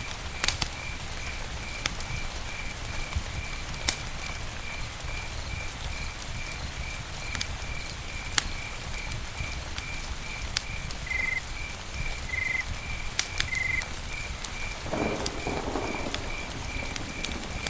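Campfire crackling, with scattered sharp pops, over a steady low rumble. Behind it an insect chirps in an even, rapid pulse, and a brief low croak-like call comes about three quarters of the way through.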